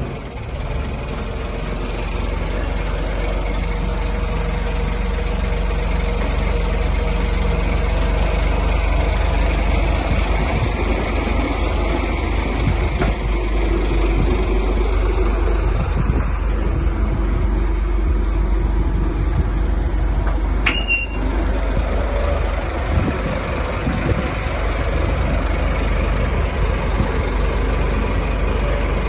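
Renault Camiva fire truck's diesel engine running steadily, with a brief sharp click about 21 seconds in.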